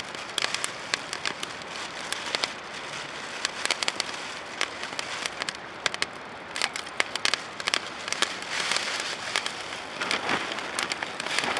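Open wood fire of dried driftwood crackling, with frequent sharp pops and snaps over a steady hiss; the popping grows busier in the second half.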